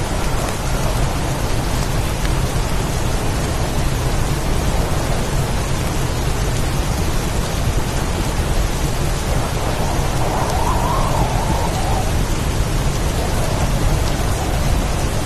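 Heavy rainstorm: a steady downpour with wind and a low rumble underneath, swelling slightly about two-thirds of the way through.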